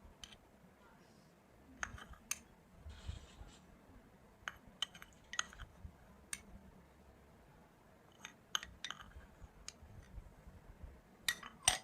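Irregular light clicks and clinks of a utensil against a bowl as tutti-frutti is added to cake batter, with the loudest cluster near the end.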